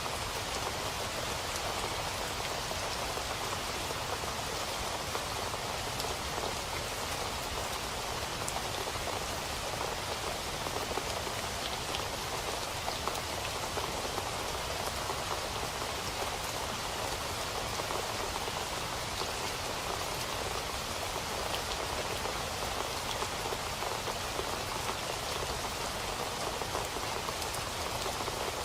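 Steady rain falling on a surface, an even hiss of noise with many small drop patters throughout.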